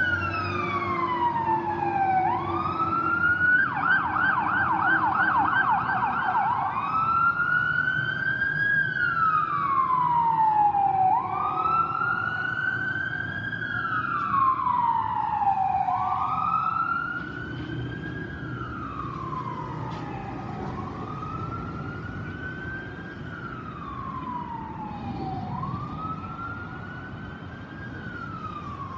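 Pierce fire engine's siren wailing, rising and falling slowly about every three and a half seconds, with a short burst of fast yelping a few seconds in, over a low rumble. The siren grows quieter a little past halfway.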